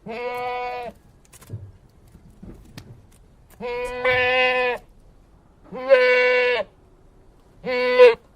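Four bleats from a sheep or goat, each under a second long and held at a steady pitch, with short quiet gaps between them.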